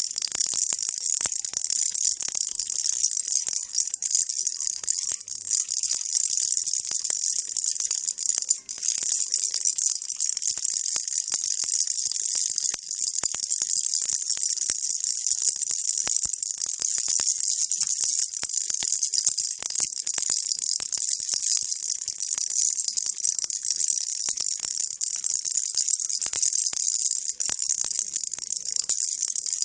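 Baby rattle shaken without pause: a dense, steady, high-pitched rattling.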